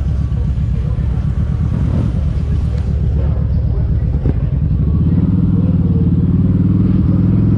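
Kawasaki Vulcan 1700 Vaquero's V-twin engine running while riding. About five seconds in, the engine note shifts and settles into a stronger, steadier beat.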